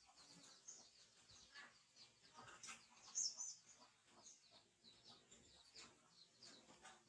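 Faint chirping of small birds: many short, high calls, with one louder chirp about three seconds in.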